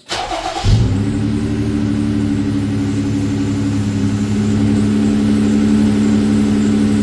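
A Jeep's 3.6-litre Pentastar V6 engine is cranked by the starter and catches within about a second, flaring briefly and then settling into a steady idle.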